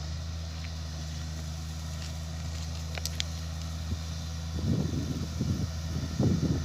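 Heavy diesel engine running steadily with a low hum. About halfway through, wind starts buffeting the microphone in gusts, and a couple of short clicks come just before.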